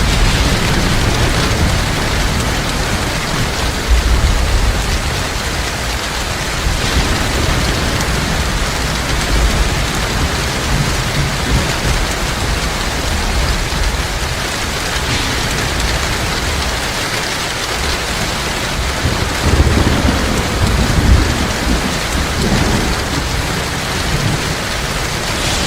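Heavy rain falling in a steady hiss, with low thunder rumbling underneath. The thunder swells to its loudest about twenty seconds in.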